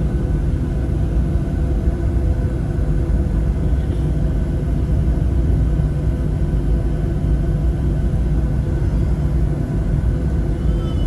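Boeing 737-700's CFM56-7B jet engines running at idle with the aircraft on the ground, heard inside the passenger cabin as a steady low rumble with a few faint constant hums above it.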